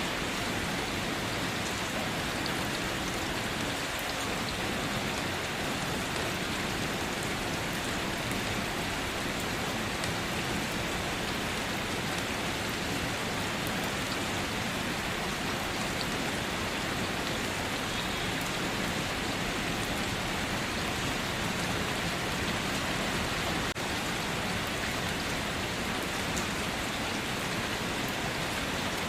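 Steady rainfall, an even hiss of rain with scattered drops hitting surfaces, without thunder.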